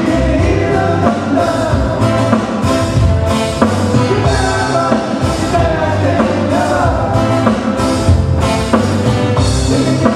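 A band playing a song, with a singer carrying the melody over a steady beat and a bass line.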